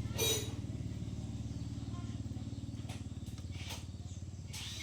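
Kubota engine running steadily with a fast, even low pulse. A brief sharp clatter sounds about a quarter of a second in, and a couple of fainter ones follow later.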